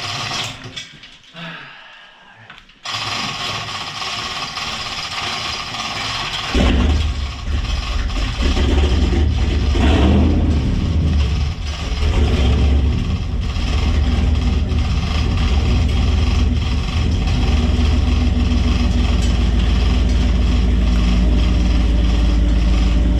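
Truck engine starting about six seconds in, then running with a steady low rumble while the truck is backed into position.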